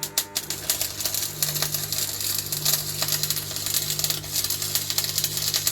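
Electric arc welder crackling steadily as metal tubes are welded into a frame, over a low steady hum.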